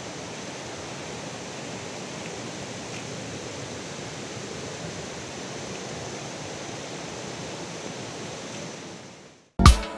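Steady rushing of a waterfall, fading out about nine seconds in. Music with sharp, pitched strikes starts just before the end.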